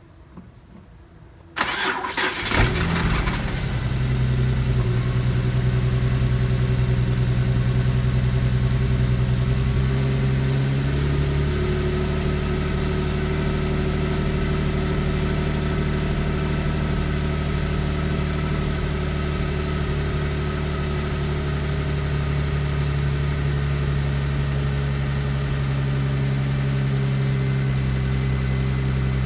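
Infiniti G37S's 3.7-litre V6 cranking and catching about a second and a half in, then idling steadily, its note shifting slightly about ten seconds in. The owner calls it a rough start and rough idle that persists after new spark plugs, coils and MAF sensor, and suspects a vacuum leak at the intake manifold gasket.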